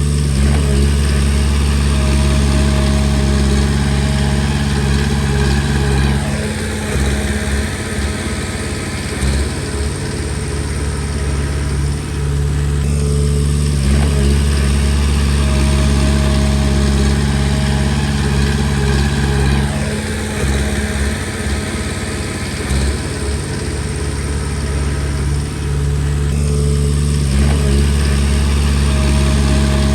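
Komatsu D20P bulldozer's diesel engine running loudly and continuously. Its note holds steady for a few seconds and then wavers, over and over about every six to seven seconds, as the dozer works through repeated passes.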